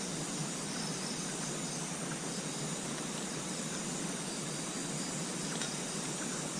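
Steady hiss of outdoor night ambience with insects trilling at a high pitch, and an occasional faint tick.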